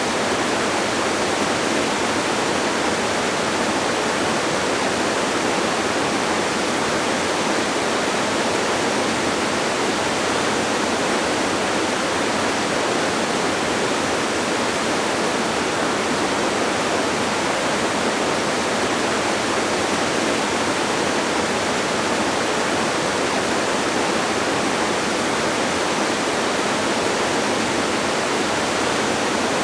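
Distant waterfall: a steady, even rush of falling water that does not change.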